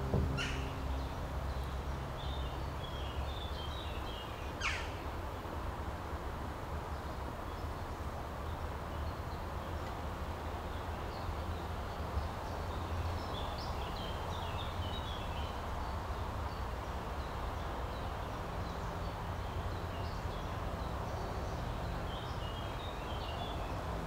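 Birds chirping on and off over a steady low outdoor rumble, with two quick, sharp falling calls in the first five seconds. A held low chord from the brass ensemble stops about a second in.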